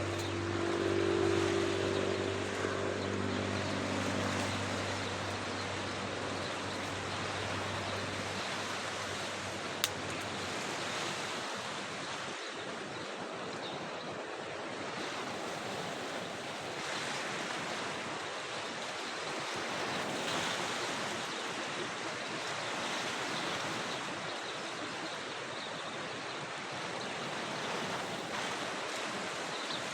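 Steady wind blowing on the microphone. For roughly the first eight to ten seconds a steady engine drone sits under it and then fades out. A single sharp click comes about ten seconds in.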